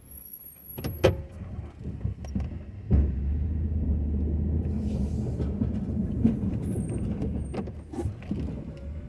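Pickup truck running, with a few clunks and clicks. About three seconds in, a louder steady low drone comes in suddenly and holds.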